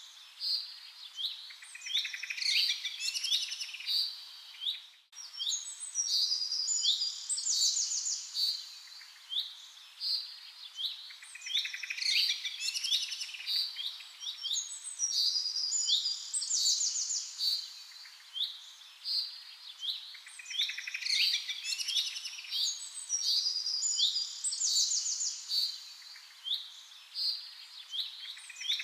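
Small birds chirping and trilling in quick, high-pitched phrases, several calls overlapping. The same cluster of calls comes back about every eight seconds, and the sound drops out briefly about five seconds in.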